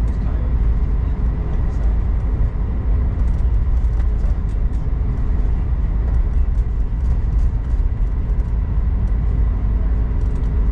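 Cabin noise inside an Airbus A220-100 taxiing after landing: a steady low rumble from its Pratt & Whitney geared turbofans at idle and the wheels rolling on the taxiway, with a faint steady hum above it and small rattles.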